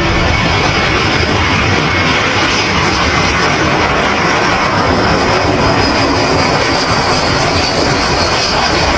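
Jet engines of an arriving Airbus A321 airliner, a loud steady rush with a faint high whine running through it.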